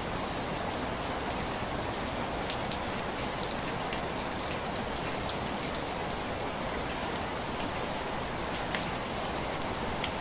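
Steady rain with individual drops tapping sharply on window glass, scattered irregularly over an even hiss.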